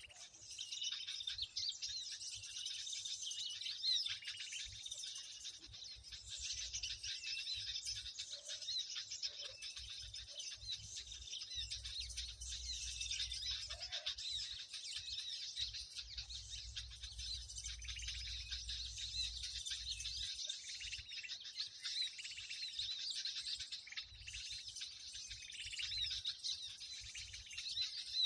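A dense chorus of small birds chirping and chattering without a break, many high calls overlapping: a 'noisy birds' lure call used to draw birds to birdlime.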